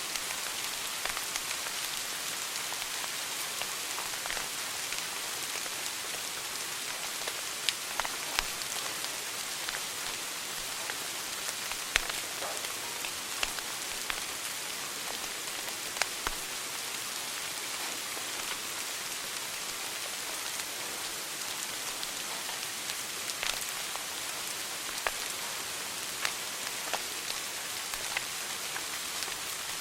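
Wood fire burning in a fireplace: a steady crackling hiss with sharp pops scattered irregularly, the loudest a few seconds apart.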